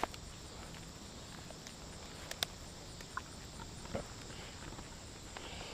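Quiet outdoor ambience with a steady high chirring of crickets or other insects, and a few faint scattered clicks and steps.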